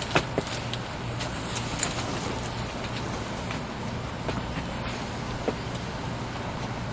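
Cabin noise inside a 300 series Shinkansen car: a steady rumble and hum with scattered light clicks and knocks.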